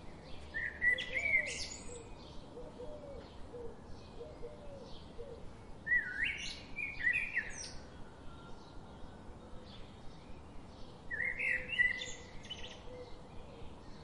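Songbirds singing: three louder song phrases of quick up-and-down notes, about five seconds apart, over steady faint chirping.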